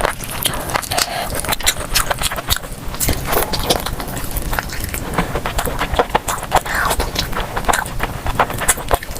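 Close-miked eating: chewing and mouth sounds, a dense run of sharp clicks and smacks.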